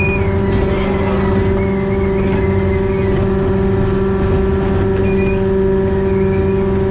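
Diesel-hydraulic narrow-gauge locomotive, its diesel engine in the tender, running under way with a steady, even drone. Faint brief high squeals come in near the start and again about five seconds in.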